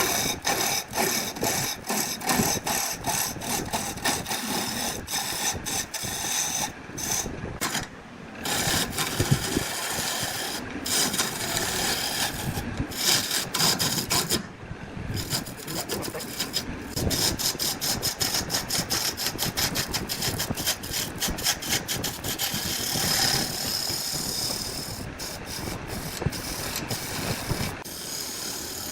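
Woodworking tools rasping and scraping against wood, a busy noisy working sound full of short clicks, with brief drops about eight and fourteen seconds in.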